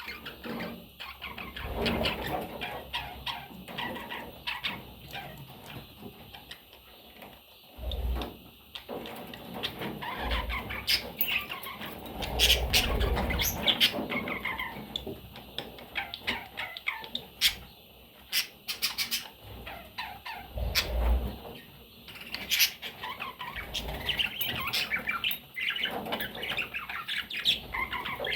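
Pet budgerigars chirping and chattering in quick, busy bursts, with occasional squawks and some low thumps.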